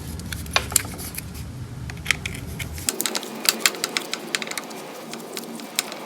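Quick, irregular metallic clicks and taps of hand tools working on a car's gear shift linkage. A low background hum drops out about three seconds in.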